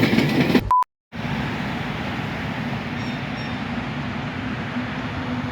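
A short beep and a moment of silence, then a train running by with a steady rumble and a low, even hum.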